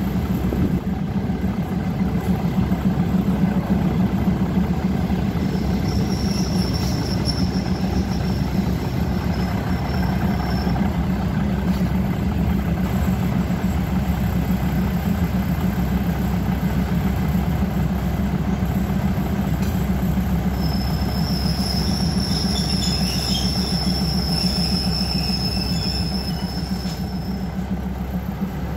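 Metre-gauge passenger train running steadily along the rails with a constant rumble. A high wheel squeal comes in briefly about six seconds in, and again for several seconds about three quarters of the way through.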